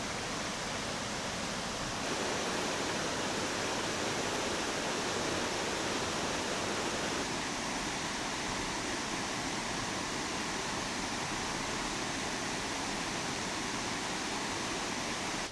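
Steady rushing noise, even and unbroken, that cuts off suddenly at the end.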